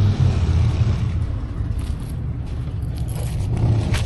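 Motorcycle engine running with a steady low rumble, mixed with wind and road noise; a short sharp click just before the end.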